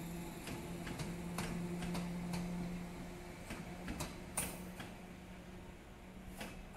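Taiwan Railway EMU100 series electric train running past, its wheels clicking irregularly over the rail joints over a steady low hum. The sound slowly fades as the train moves away.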